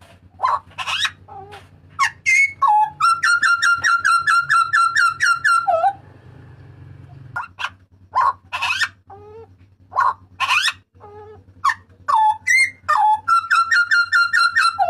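Hooded butcherbird (jagal papua) calling loudly: sharp single notes, and twice a fast run of about a dozen evenly repeated notes, roughly five a second.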